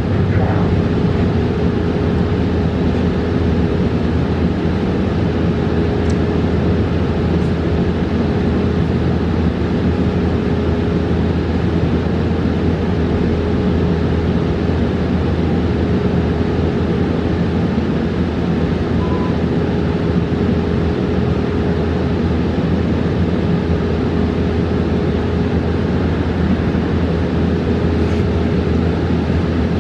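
Interior noise of a 2022 New Flyer XE40 battery-electric transit bus: a steady low rumble with a constant hum held throughout.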